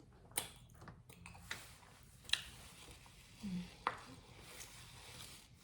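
Quiet eating sounds close to the microphone: a handful of sharp, separate clicks and taps, with a short closed-mouth hum about halfway through.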